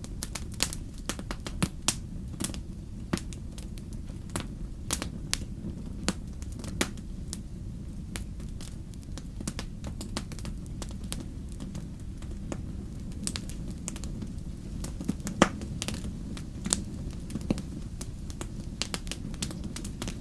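Wood fire crackling in a fireplace: frequent sharp pops and snaps at irregular intervals over a steady low rumble of the flames, with one louder pop about fifteen seconds in.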